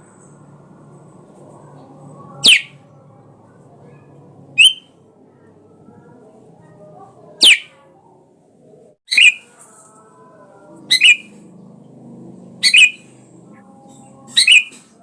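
Sooty-headed bulbul (kutilang) calling: loud, brief downward-sweeping calls repeated about every two seconds, seven in all, over a faint low hum.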